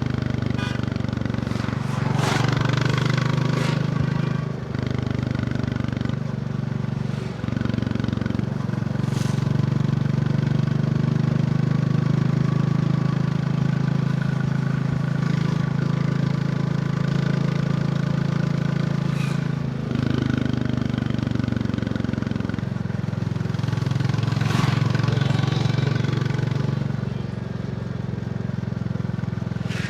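Royal Enfield Bullet 350's single-cylinder engine running under way, its note stepping up and down several times with gear and throttle changes.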